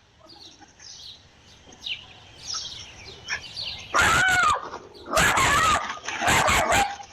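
Small birds chirping, then three loud animal cries of about half a second each, starting about four seconds in.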